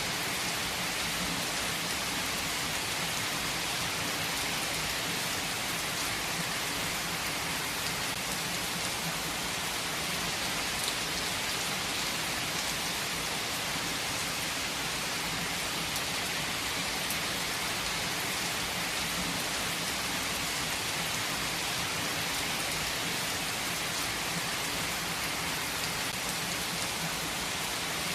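Heavy rain falling steadily, a dense even hiss of drops on a surface with occasional individual drop ticks.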